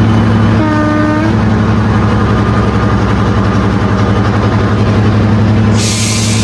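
Class 55 Deltic diesel locomotive's engines running with a steady low drone. A short single-note horn blast sounds about half a second in, and a burst of hissing air comes near the end.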